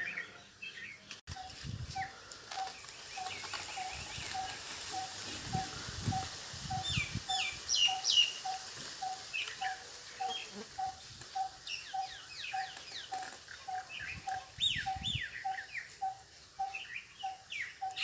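A small bird calling one short, low note over and over, evenly about twice a second, while other birds chirp with quick, high, falling notes.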